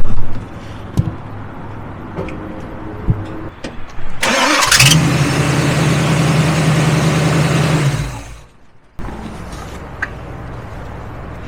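Old car's engine cranks briefly and starts about four seconds in, then runs steadily at idle for about three seconds before cutting off suddenly.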